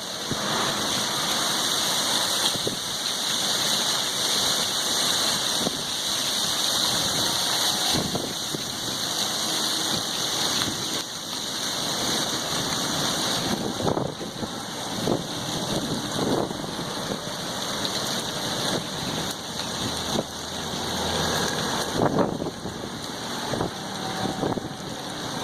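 Storm wind blowing hard, a steady rushing hiss with a few sudden louder moments, the sharpest a little over twenty seconds in.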